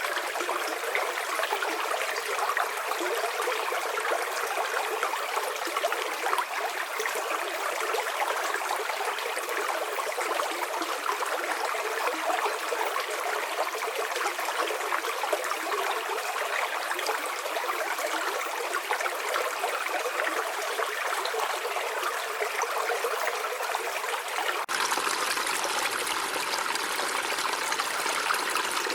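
River water flowing over rocks, a steady rushing and babbling. Near the end it switches abruptly to a different stretch of water with a deeper, fuller rush.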